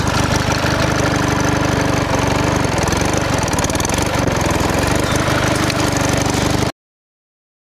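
Small engine running steadily with a rapid knocking beat, cutting off suddenly near the end.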